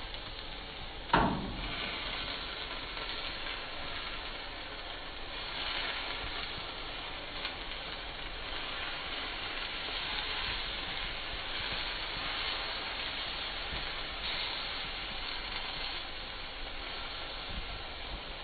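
Rotisserie chicken sizzling on the spit as a steady hiss, with one sharp knock about a second in.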